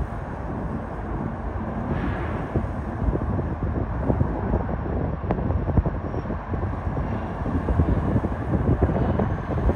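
Freight train rolling past: a steady low rumble with many short, irregular clicks and clanks.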